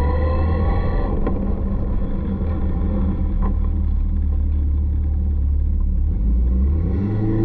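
Caterham 620R's supercharged 2.0-litre four-cylinder engine heard from the open cockpit: the revs drop off about a second in, then it runs slowly at low revs with a steady rumble before the revs start to rise again near the end.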